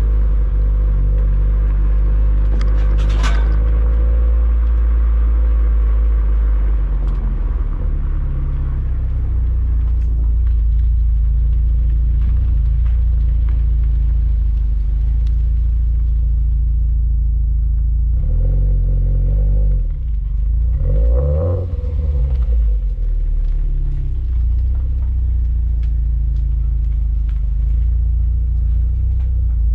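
Subaru WRX STI's turbocharged flat-four exhaust running through an HKS Super Turbo Muffler while the car is driven: a steady low drone. About two-thirds of the way through, the engine note shifts briefly up and down in pitch before settling back into the drone.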